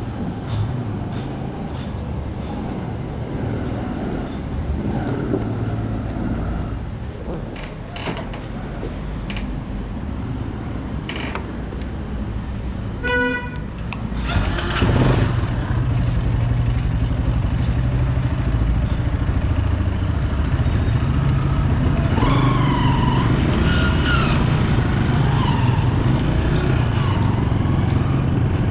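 Street traffic with scattered clicks, then a short beep about halfway through. After that a 2008 Bajaj Pulsar 200 motorcycle's single-cylinder engine runs steadily and louder.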